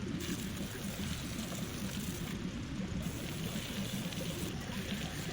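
Water from a hose running and splashing steadily, rinsing Evaporust off a rust-soaked engine part.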